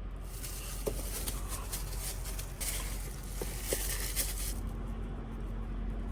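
Rustling and light handling noises, with a few small clicks, over a steady low hum; the rustling stops about two thirds of the way through.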